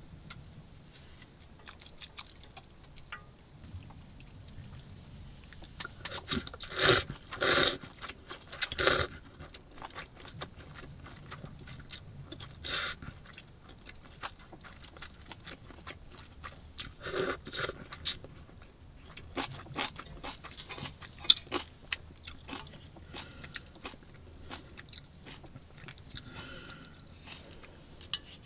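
A person eating close to the microphone: quiet chewing and crunching, with a few short, louder noisy bursts about a quarter of the way in and again past the middle.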